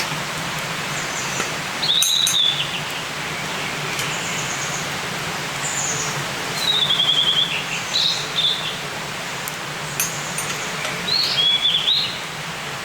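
Forest birds calling: short trilled phrases repeat every few seconds, with brief higher chirps between them, over a steady hiss of background noise. A couple of sharp clicks come about two seconds in and again near ten seconds.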